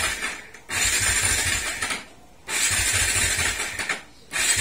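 Motorcycle electric starter cranking the engine in repeated bursts of about a second each, with short pauses between, and the engine not catching: hard starting, which the owner now blames on the carburetor needing tuning rather than the spark plug.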